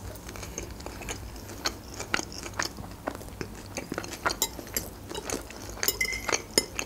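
Chewing and crunching of Caesar salad, a run of many small crisp mouth sounds, with a fork clinking against a glass dish. One short ringing clink comes about six seconds in.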